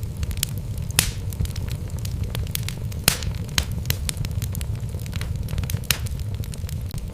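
Wood fire burning in a fireplace: a steady low rumble of flames with frequent sharp crackles and pops from the burning logs, the loudest pops about one and three seconds in.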